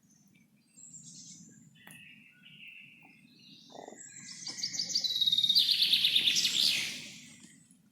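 Songbirds singing: a few short, scattered chirps, then about halfway in a loud, rapid trilling song of quickly repeated high notes that lasts around two and a half seconds, over a faint low rumble.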